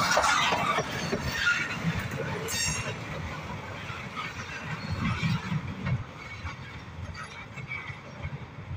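Freight train tank cars rolling past with wheels clattering on the rails, growing quieter as the train pulls away. A brief high wheel squeal comes about two and a half seconds in.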